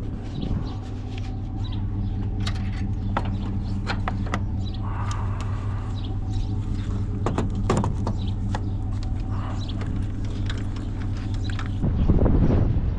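Truck engine idling steadily, with scattered clicks and knocks over it.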